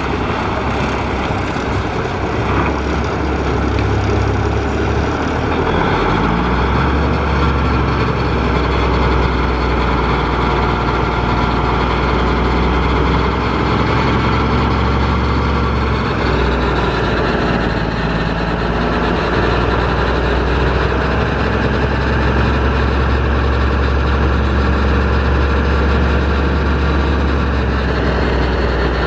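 1985 International S2600 dump truck's engine running steadily with a deep, even drone. Its note shifts slightly a couple of times.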